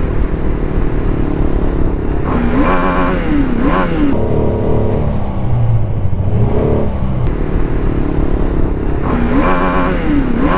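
BMW G310RR's single-cylinder engine running on the move, its note dipping and rising a couple of times with the throttle.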